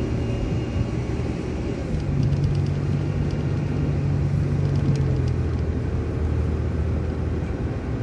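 City transit bus engine running with road rumble, heard from inside the bus as it drives. The engine note holds steady, then drops lower about five or six seconds in.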